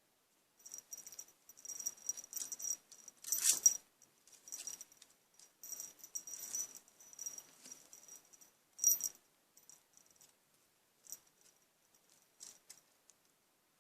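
Small jingle bell rattling in irregular shakes with quiet gaps between, loudest about three and a half seconds in and again near nine seconds.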